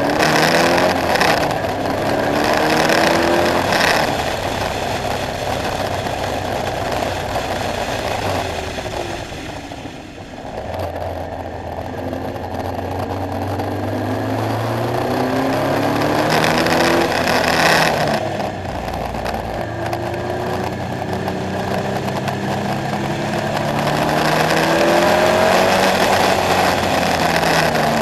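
KTM X-Bow's engine being driven hard on track: repeated rising climbs through the revs as it accelerates through the gears, with a lift-off about ten seconds in and a long steady pull up the rev range afterwards.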